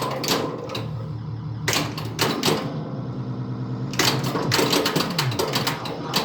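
Bally Centaur pinball machine in play: rapid sharp clacks of flippers, pop bumpers and other coils firing, over the game's electronic sound effects as steady layered tones. The clacking stops for about a second near the middle, leaving only the tones, then starts again.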